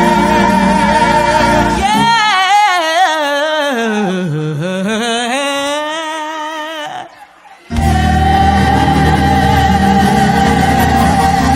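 Live gospel music: band and singers hold a long note. The band then drops out under a solo vocal run with strong vibrato, sliding down in pitch and back up. The full band crashes back in about eight seconds in.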